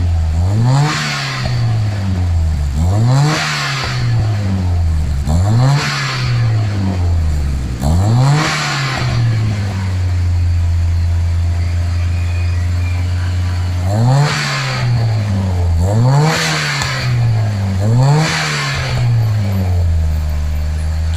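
Car engine with an aftermarket racing exhaust being blipped: four quick revs about two seconds apart, the note rising and dropping back each time, then a few seconds of steady idle, then four more revs.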